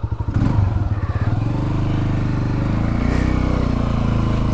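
Motorcycle engine pulling away from idle: its pulses quicken, then the engine note rises steadily for a couple of seconds as the bike gathers speed, and evens out near the end.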